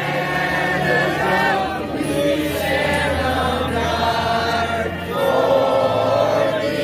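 Many voices singing or chanting together in long held notes that shift in pitch every second or two.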